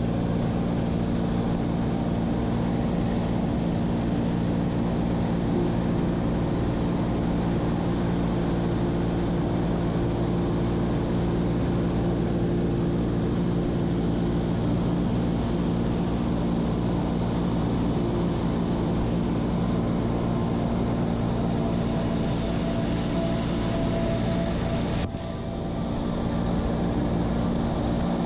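Seaplane's propeller engine running steadily in flight, a constant drone with a brief dip near the end.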